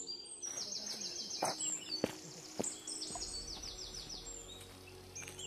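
Birds singing: repeated quick runs of short, high, falling notes. Three sharp knocks about half a second apart stand out in the first half.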